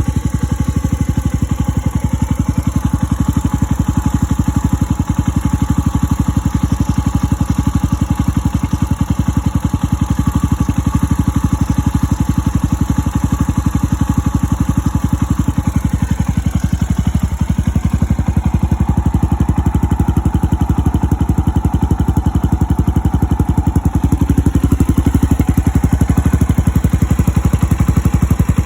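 Suzuki Grasstracker Big Boy's 250 cc air-cooled single-cylinder four-stroke engine idling steadily, with an even exhaust pulse.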